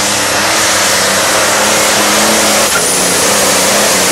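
Pulling tractor's engine running flat out during a pull, a loud, steady mechanical din with a constant low hum.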